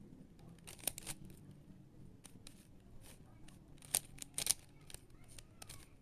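Rubik's cube being turned by hand: a string of irregular sharp plastic clicks as the layers snap round, a few of them in quick pairs.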